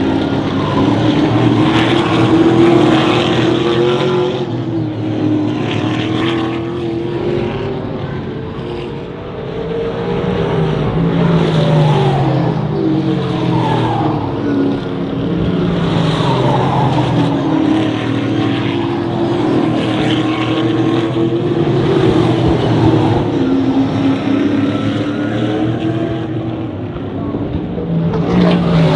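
Trans Am race cars' V8 engines running hard at racing speed, the engine note repeatedly climbing and dropping as the cars accelerate, change gear and brake for corners.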